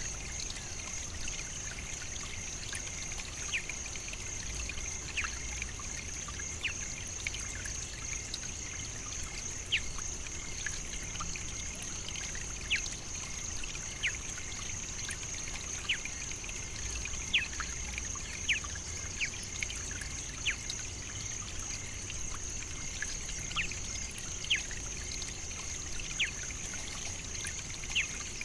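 African savannah nature ambience: a steady high-pitched hiss with many short, sharp chirps or drips scattered through it.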